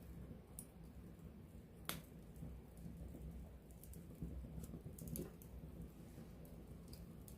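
Campfire burning at close range: a low steady rumble from the flames with scattered crackles and pops of burning wood. The sharpest pop comes about two seconds in, and another about five seconds in.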